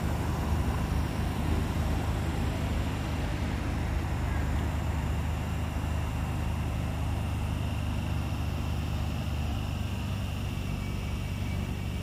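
Steady low hum and rumble from a standing London Underground 1996 Stock Jubilee line train, with a faint high whine running through it.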